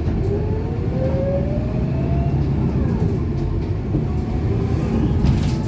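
Scania K230UB single-deck bus under way, its five-cylinder diesel engine and drivetrain giving a steady low drone. A whine climbs steadily in pitch over the first two seconds or so, as the bus gathers speed, and a second, fainter whine rises around the middle.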